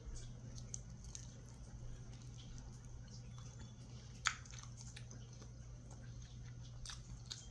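Faint wet mouth sounds of a person chewing a spoonful of lamb soup, with scattered soft smacking clicks and one sharper click about four seconds in, over a steady low hum.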